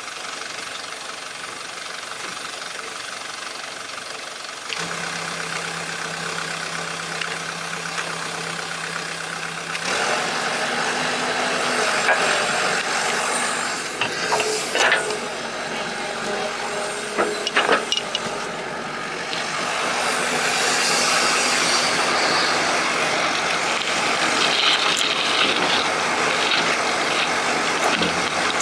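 Excavator at work: its engine runs steadily, with several sharp metal knocks and clanks from the digging gear about halfway through.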